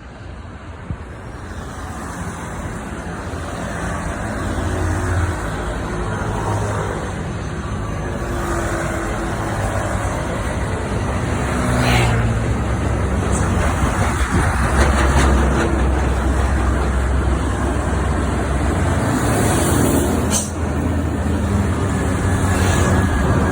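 Heavy trucks' diesel engines running close by as one truck overtakes another, growing louder, with the engine pitch shifting. Two brief sharp sounds come through, about halfway and near the end.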